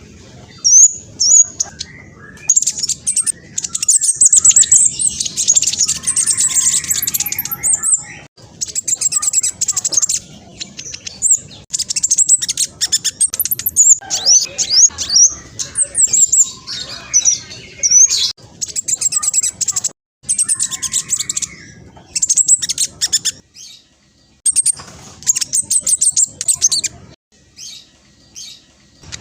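Black sunbird singing a fast, noisy song of very high, rapid chirps and trills, delivered in bursts with brief pauses between them.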